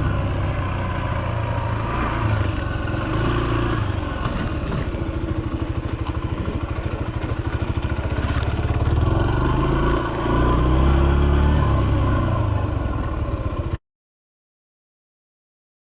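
Yamaha XTZ125's single-cylinder four-stroke engine running under way, its revs rising and falling, with rattle and wind on the microphone. It cuts off suddenly to silence about 14 seconds in.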